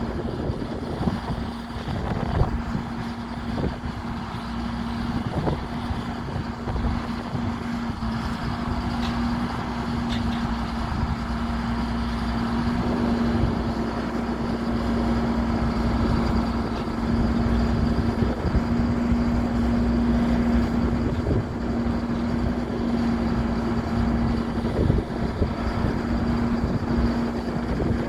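Diesel engine of a 2003 Sterling Acterra crane truck running steadily: a low rumble with a constant droning hum, getting slightly louder about halfway through.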